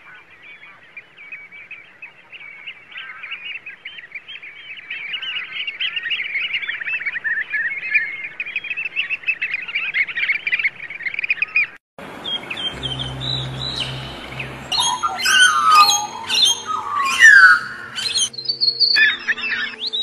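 Birds calling: rapid, dense chirping and twittering for about twelve seconds, then, after a brief break, louder squawking calls that sweep down and up over a low steady hum.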